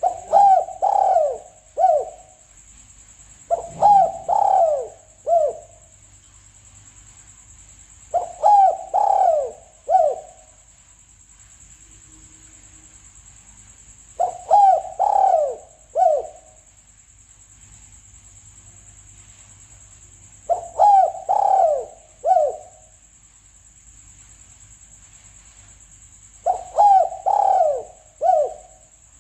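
Spotted dove (tekukur) cooing its song: a short phrase of low coos about two seconds long, repeated about every six seconds, six times. It is played as a hunting lure call.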